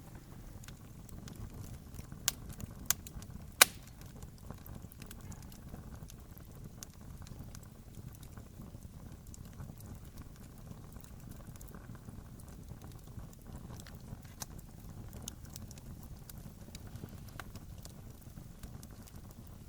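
Wood fire crackling over a low steady rumble, with scattered small snaps and three sharp pops a couple of seconds in, the last the loudest.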